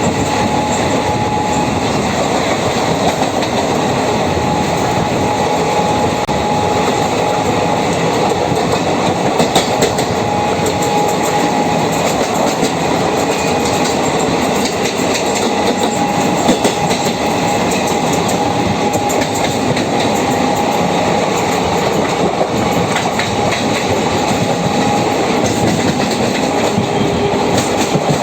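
Passenger train running at speed: a steady rumble of wheels on rail with clicks over the rail joints, and a faint thin squeal coming and going.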